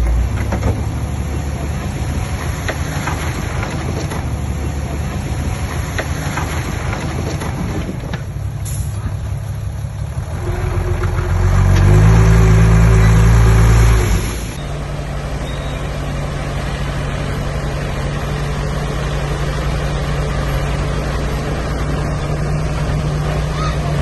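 Heavy diesel earthmoving machinery running steadily. About halfway through, an engine revs up and runs loud under load for about four seconds, then drops off suddenly.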